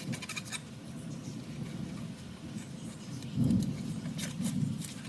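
Knife scraping and slicing through a hybrid striped bass on a cutting board: scattered short scrapes and ticks over a steady low rumble, with a louder low thump about three and a half seconds in.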